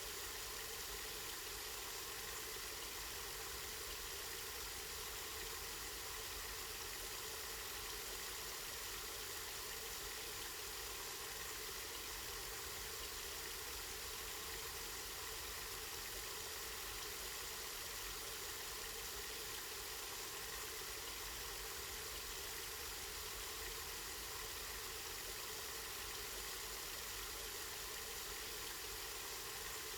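Water from a spring flowing steadily, an even unbroken rushing hiss.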